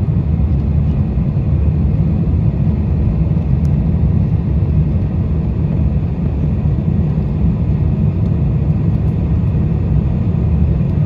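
Steady low rumble of a Boeing 747-400 cabin in flight on approach, engine and airflow noise heard from inside the cabin.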